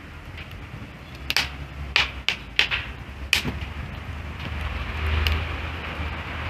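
Wood fire crackling, with about five sharp pops between one and three and a half seconds in, over a steady low rumble and hiss.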